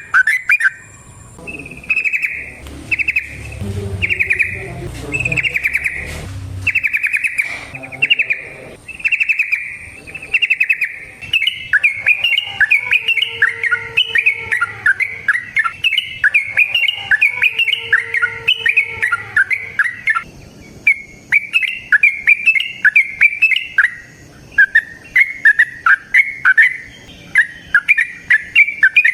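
Yellow-vented bulbul (trucukan) singing: long, fast phrases of quick chirping notes, one after another with only short pauses.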